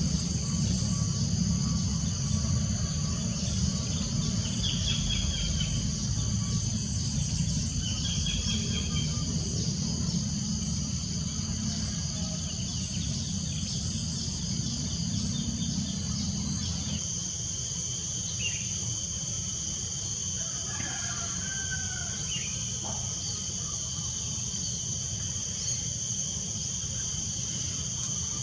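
Rural forest ambience: a steady chorus of crickets and other insects giving several continuous high buzzing tones, over a low steady rumble. A few short bird chirps come through, and about halfway through the highest insect buzz grows louder.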